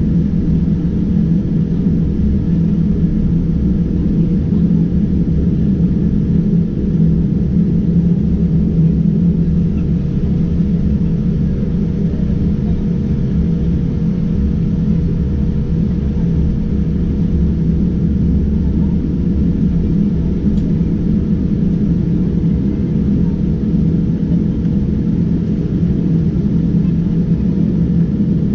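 Steady low rumble and hum inside the economy cabin of a Boeing 787-9 Dreamliner, its GEnx engines at low taxi power just before takeoff.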